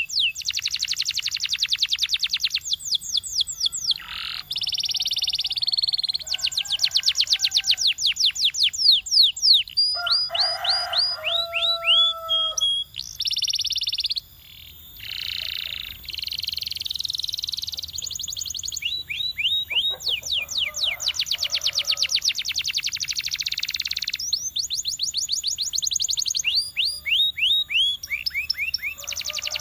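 Domestic canary singing a long, continuous song of fast trills: runs of rapidly repeated falling notes, buzzing rolls, and a few lower, held whistles partway through.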